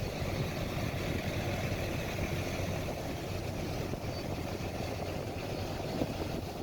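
Strong blizzard wind blowing steadily across the microphone, a dense low rumble with a faint steady hum beneath it.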